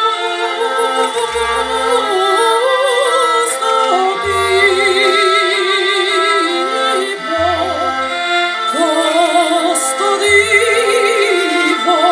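Operatic singing with a wide vibrato over a symphonic ensemble, with low bass notes entering about every three seconds.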